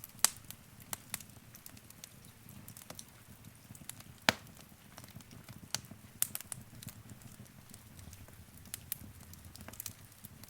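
Wood fire crackling in a fireplace: irregular sharp pops and snaps over a low steady rumble of burning, with the loudest pops about a quarter second in and again about four seconds in.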